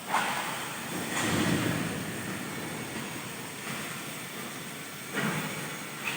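Automatic plate-cutting machine at work on metal plate: a steady hiss with louder surges, the strongest about a second in and another near five seconds.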